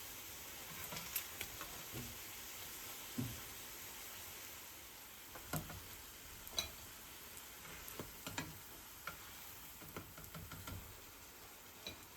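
Food frying gently in a pan: a faint, steady sizzle with scattered light clicks and taps, as of a utensil stirring against the pan.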